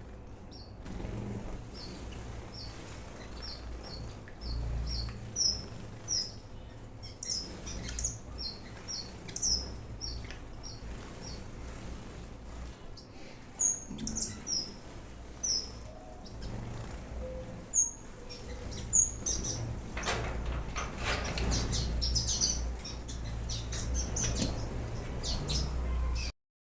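Small ornamental aviary birds chirping in a long series of short, high, repeated notes. Near the end comes a flurry of wing fluttering and louder calls, and then the sound cuts off suddenly.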